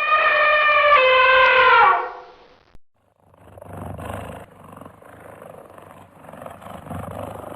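An animal's long call on one steady pitch, lasting about two seconds and dropping at its end, followed after a short pause by several seconds of rough, noisy, pitchless animal sound.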